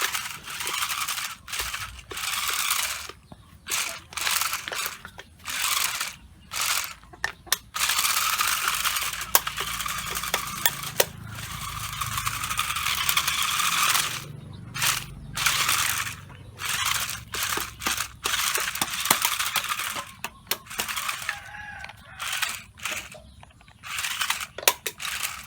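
Radio-controlled drift car driving in stop-and-go bursts: a hissing scrub that starts and stops every second or two, with sharp clicks between, and a longer unbroken run through the middle.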